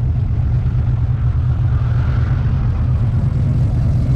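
Deep, steady engine rumble from classic American cars idling and rolling at the start of a convoy.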